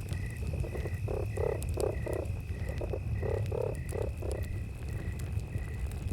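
Campfire crackling and popping under a steady high insect trill and regular cricket chirps about twice a second. In the middle an animal calls in two runs of short, low, pulsed notes, about three a second.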